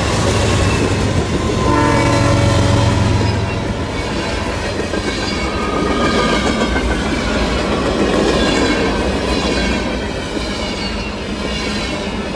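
BNSF diesel locomotive leading a freight train past at close range, its horn sounding a chord for about two seconds near the start. Its engine is heavy and low, and the rolling clatter of the freight cars' wheels on the rail follows.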